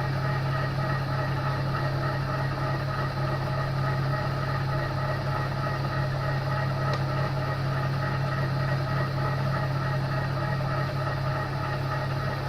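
TOS milling machine running steadily with a carbide drill bit in the spindle, drilling out a snapped stainless steel exhaust stud: an even machine hum with a strong low tone and several fainter higher tones.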